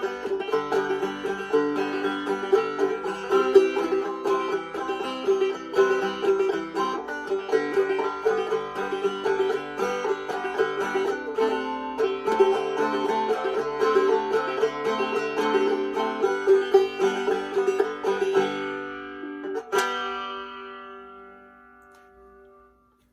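Five-string banjo played clawhammer (frailing) style: a steady run of picked and brushed notes, with the thumb sounding the high drone string throughout. It ends in a last strum about 20 seconds in that rings out and fades away.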